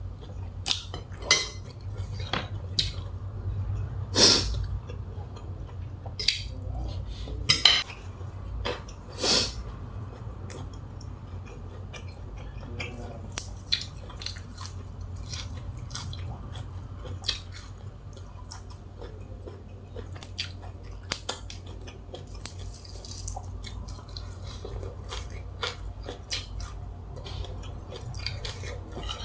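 Utensils clinking against dishes in irregular light clicks, with a few louder knocks in the first ten seconds, over a steady low hum.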